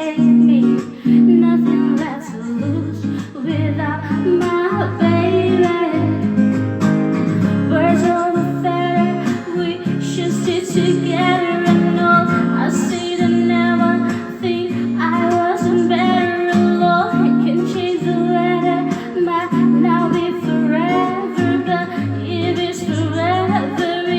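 An acoustic guitar is played with steady strummed chords while a voice sings a sustained, wavering melody over it, without clear words.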